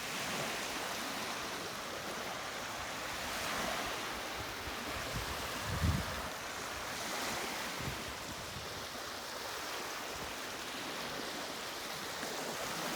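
Small lake waves washing onto a beach, a steady rushing wash that swells and ebbs, with a brief low thump about six seconds in.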